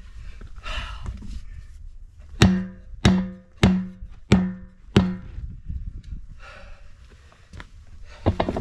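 Five ringing metallic hammer blows, about two-thirds of a second apart, with a further knock near the end: metal striking metal while a truck tyre's bead is forced over its steel rim by hand.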